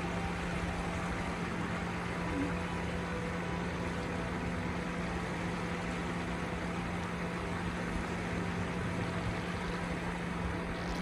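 Steady rushing outdoor background noise with a constant low hum and irregular low rumbles.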